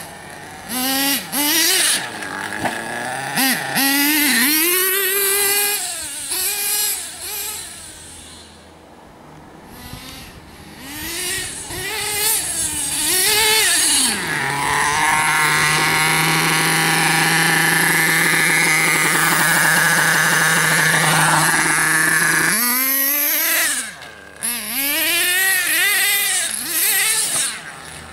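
Radio-controlled model cars' motors revving up and down again and again, with one run held at a steady high pitch for several seconds in the middle before the revving resumes.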